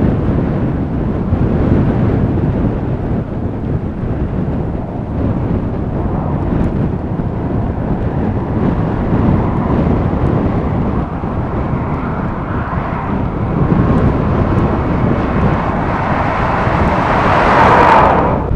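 Strong blizzard wind gusting, rumbling on the microphone, with a louder gust building near the end.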